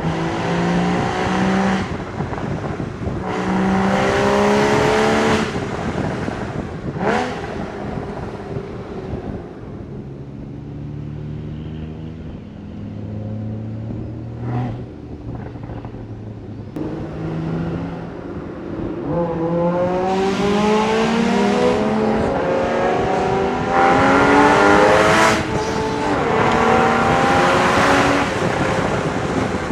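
Porsche 981 Boxster Spyder's naturally aspirated 3.8-litre flat-six pulling hard through the gears, its pitch climbing and dropping back at each upshift. In the middle it settles to a low, steady cruise, then pulls hard up through the gears again.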